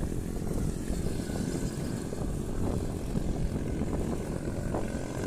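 Wind buffeting the microphone of a moving road bike: a steady, dense rushing rumble, heaviest in the low end.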